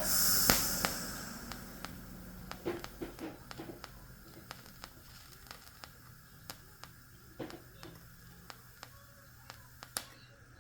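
TIG welding on chrome moly steel: a hissing burst at the start that fades within about a second, then scattered sharp clicks over a steady low hum.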